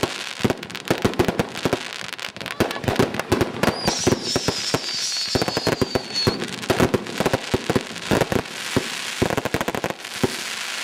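Fireworks display going off: a rapid, irregular string of bangs and crackles throughout, with a high whistle from a whistling firework falling slightly in pitch from about four to six seconds in.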